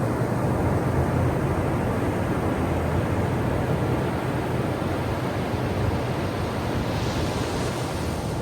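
Ocean surf washing on the shore, a steady rush that brightens into a hiss for a moment about seven seconds in.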